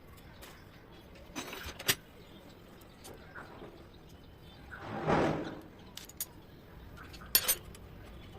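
Metal hand tools clinking and clicking on the engine's valve gear while the tappet clearance is set: a few sharp clinks a couple of seconds in, and again near the end. About five seconds in there is a short, dull rushing sound.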